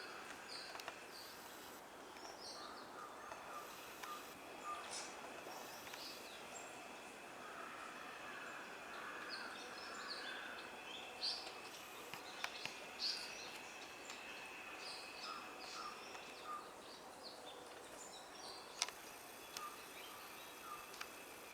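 Several wild birds calling: many short, faint chirps and whistles scattered throughout, some lower chirps among them, over a steady high drone.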